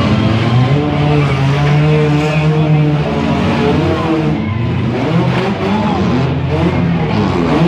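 Several demolition derby cars' engines running and revving in the dirt arena, their pitch rising and falling as the drivers rev up and back off.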